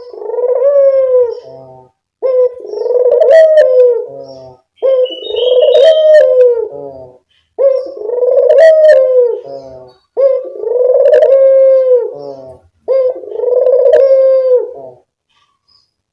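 Ringneck dove (burung puter) cooing: six long, loud coos in a steady series, each beginning with a short note that runs into a drawn-out one.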